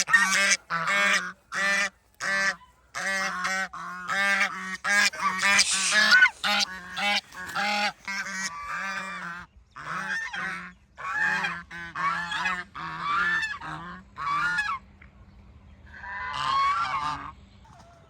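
Goose honking in a rapid run of short calls, about two a second, then after a brief pause one longer call near the end.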